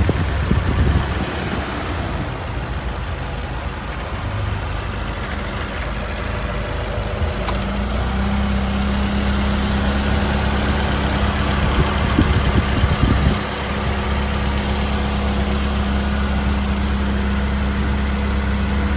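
Mazda Miata's four-cylinder engine idling steadily after a drive, an idle its owner calls good with no problems. A steady hum joins the idle about eight seconds in.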